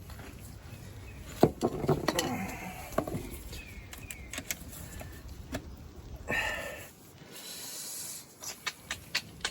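Metal knocks, clinks and scrapes as a stuck bearing cap is worked loose from a Case 188D diesel engine block, with a couple of short squeals of metal rubbing on metal.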